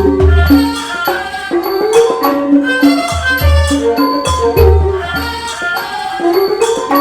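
Thai classical ensemble playing a hom rong overture: quick pitched notes struck on mallet instruments, low drum strokes about once a second, and a high metallic tap repeating through the music.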